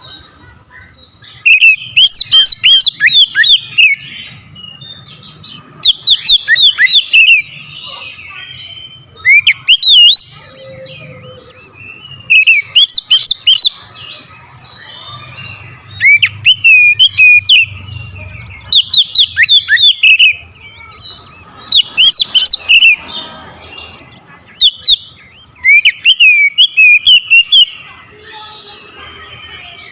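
Oriental magpie-robin (kacer) singing loudly in repeated bursts of fast, rising and falling whistled notes, a new phrase every two to three seconds.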